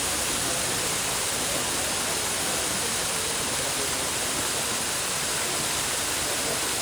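Steady rushing of falling water, like a waterfall, with a faint murmur of distant voices.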